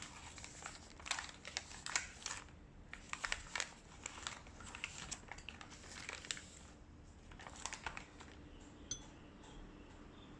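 Crinkling and rustling of something being handled, in irregular clusters of short crackles that stop after about eight seconds.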